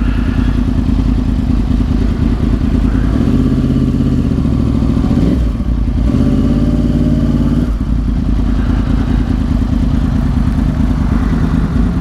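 Yamaha R1's crossplane inline-four with Yoshimura exhausts running under way. The engine pitch climbs twice with brief drops between, as the bike accelerates and shifts up through the gears.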